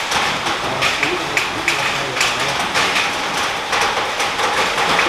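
Rain falling: a steady hiss with irregular patter.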